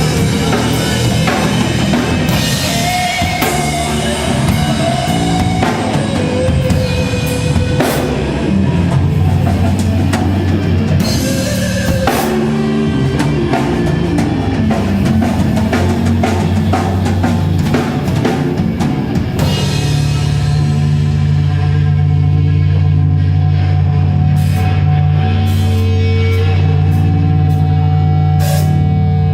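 A live rock band playing heavy, metal-tinged rock: guitars and bass over a pounding drum kit with cymbals. About two-thirds of the way through, the drumming thins out to a sustained low chord with a few scattered cymbal crashes.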